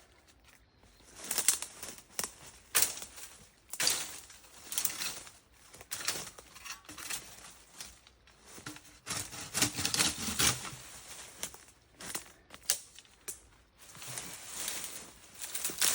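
Briars and ivy being pulled, torn and broken by hand: irregular rustling, crackling and snapping of stems and leaves, with a heavier thrashing stretch about two-thirds of the way through.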